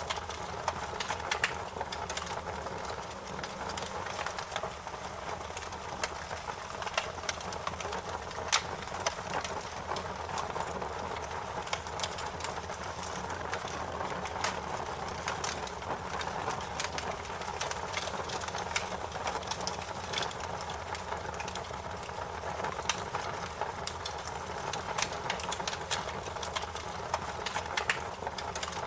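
Fire crackling: a steady hiss with frequent, irregular sharp pops and snaps.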